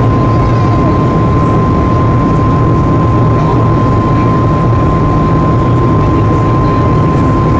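Steady loud cabin noise of a Boeing 737 MAX 8 in flight: an even low rumble from its CFM LEAP-1B engines and the airflow, with a thin constant whine.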